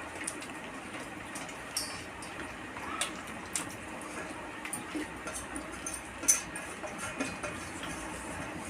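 People eating puffed rice (muri) mixed with fritters by hand: irregular small crunches and crackles over a steady background hiss, with one sharper click a little after six seconds in.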